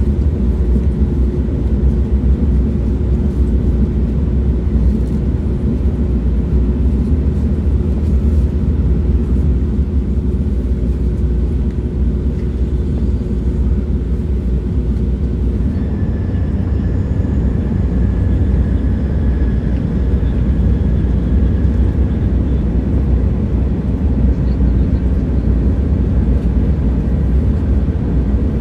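Train running on the rails: a steady, dense low rumble. A faint hum sits on top and shifts to a higher whine about halfway through.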